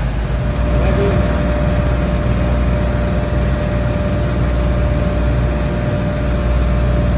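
A large engine running steadily: a deep, even rumble with a constant mid-pitched hum over it.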